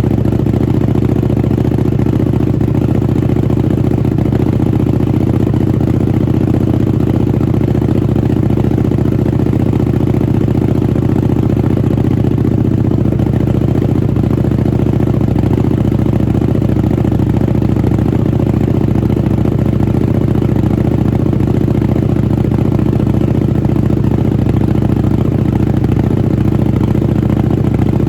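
Buell 1125R's liquid-cooled V-twin idling steadily through a Jardine RT-5 slip-on exhaust, with an even, unchanging beat.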